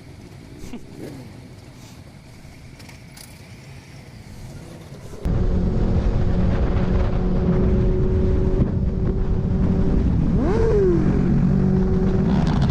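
Faint background for the first few seconds, then a sudden cut to a motorcycle engine running loud and steady with a rushing low rumble. Its pitch rises and falls briefly near the end.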